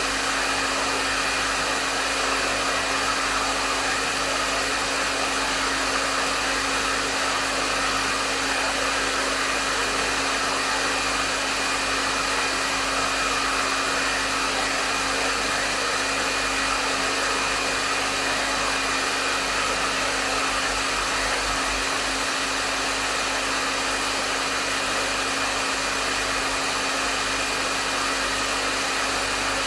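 Hair dryer running steadily: an even rush of airflow with a low motor hum and a faint high whine held at one pitch.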